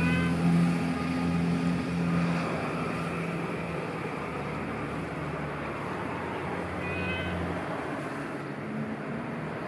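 Domestic cat meowing, two short meows several seconds apart, over the low hum of a vehicle engine that fades away.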